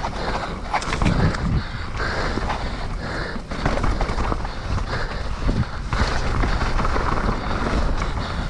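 Wind rushing over the microphone of a moving rider, with the low rumble and scattered rattles and knocks of tyres rolling over a wet, rough trail.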